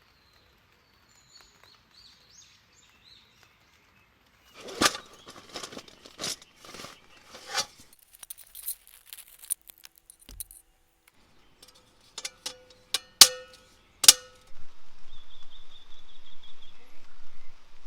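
A run of sharp clicks and knocks, then steady outdoor background noise with a brief high bird chirp.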